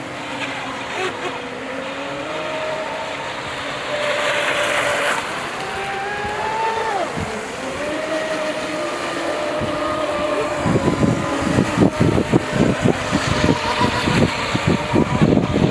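Electric RC speedboat motors whining, the pitch sliding up and down with the throttle. From about ten seconds in, a run of irregular low thumps joins the whine.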